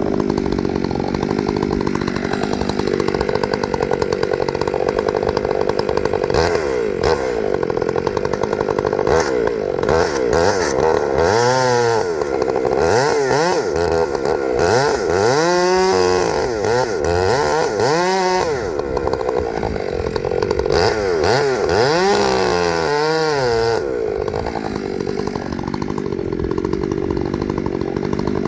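Gas chainsaw running. Through the middle its engine speed repeatedly drops and climbs back, as when the chain bogs in the cut and recovers. It then settles at a steady speed near the end.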